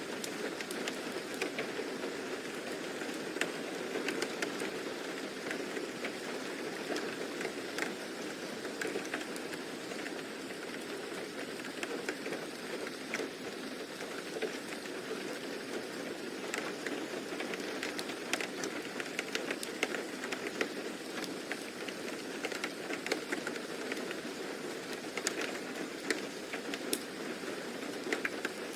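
Steady rain falling, an even hiss scattered with irregular patters of individual drops.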